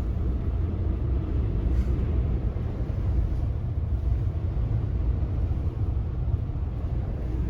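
Steady low rumble of a car's road and engine noise, heard while driving.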